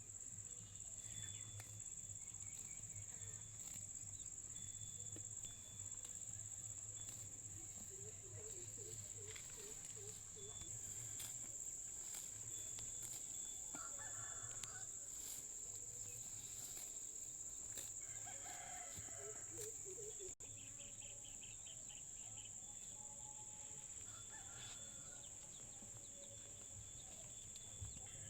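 Chickens clucking and calling faintly, with short calls scattered through, over a steady high-pitched whine and a low hum.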